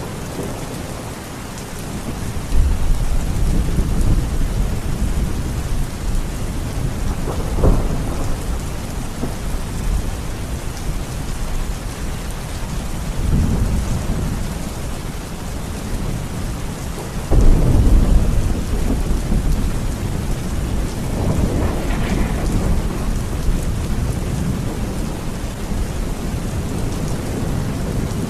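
Steady rain with several low rolls of thunder rumbling through it, the loudest a little past the middle.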